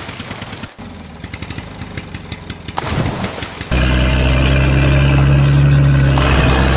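Vehicle engine sound: about a second in it cuts to an engine ticking over with rapid even pulses, and just under four seconds in a much louder, steady engine note starts abruptly.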